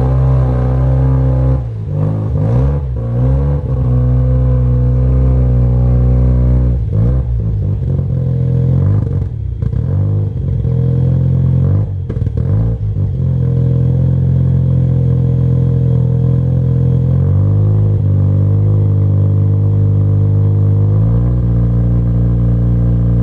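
Single-turbo Mazda RX-7 rotary engine running under way, the revs dropping and climbing again several times in the first half, then holding steady.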